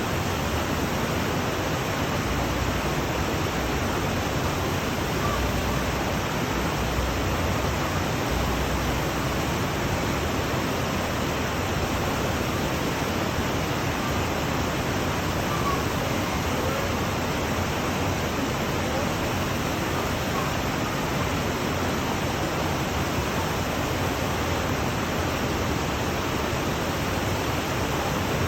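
Brook water flowing in a steady, even rush.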